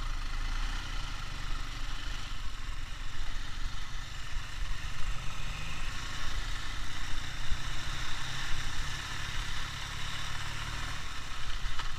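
Ural motorcycle's flat-twin engine running steadily at low revs.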